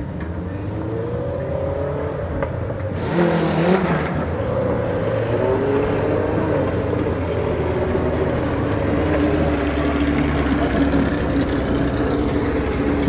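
Racing lawn mower engines revving, with pitches sliding up and down. About three seconds in the sound turns suddenly louder and noisier, then settles into engines running hard at a fairly steady pitch.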